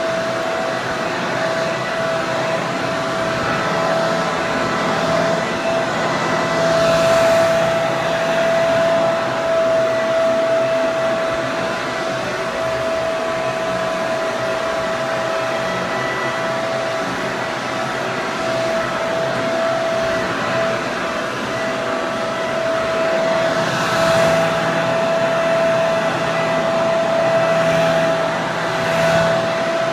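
Electric hair dryer running continuously: a steady rush of air with a constant motor whine.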